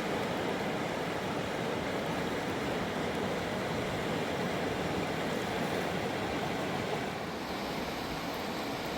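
Fast mountain river rushing steadily, a continuous roar of turbulent water that eases slightly about seven seconds in.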